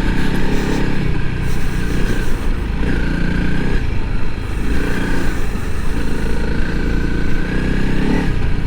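Honda CRF300L Rally's single-cylinder engine running steadily under load as the dual-sport motorcycle is ridden through soft sand, its note rising and falling a little with the throttle.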